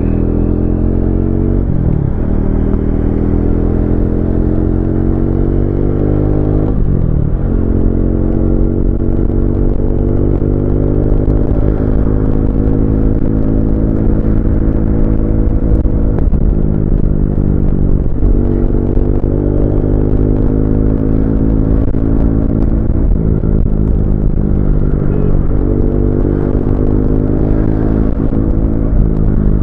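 Triumph Speed 400's single-cylinder engine pulling hard under acceleration. Its note climbs steadily in pitch, with brief breaks at several gear changes.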